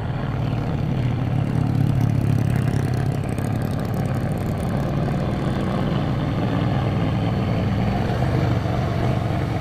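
Heavy truck's diesel engine running steadily close by, a deep, even drone.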